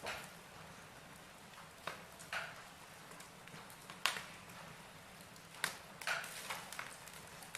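Wood logs burning in a fireplace, crackling: a soft steady hiss broken by sharp pops and snaps at irregular intervals.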